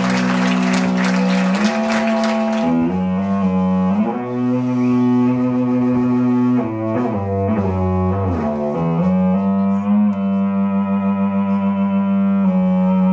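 Audience applause dying away over the first few seconds, then the slow instrumental opening of a live song: held notes on a bowed string instrument with guitar, changing every second or two with short slides between them.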